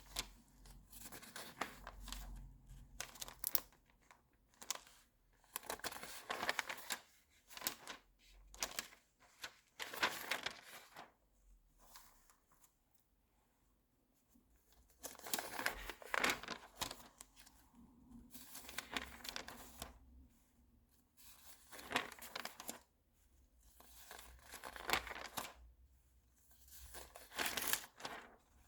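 Magazine pages being turned one after another, each turn a papery swish and crinkle lasting about a second, with short pauses between them.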